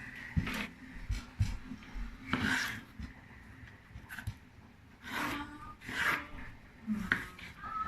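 Scraping and rubbing strokes from peeling the skin off a tomato by hand. There are several separate strokes with light clicks between them.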